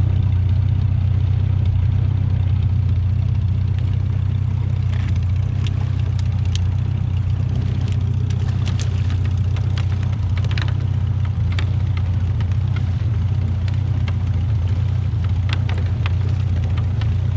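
A fishing boat's engine running steadily, a constant low hum, with scattered light clicks and knocks over it.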